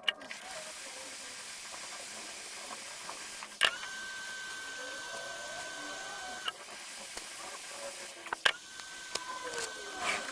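Hot air rework station blowing a steady hiss of air. A steady high whine starts with a click about three and a half seconds in, stops about three seconds later, and comes back with another click near the end.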